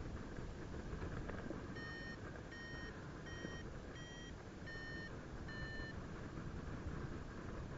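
Paragliding variometer giving six short, evenly spaced beeps, its climb tone, which rises slightly in pitch and then falls back, marking the wing climbing in lift. Steady wind rush on the microphone runs underneath.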